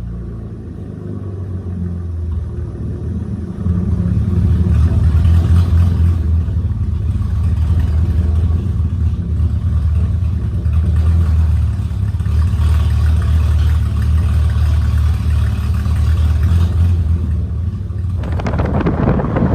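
V6 Camaro engine running with a deep, steady exhaust drone that steps up in loudness about three and a half seconds in and then holds. Right at the end a louder rush of noise sets in.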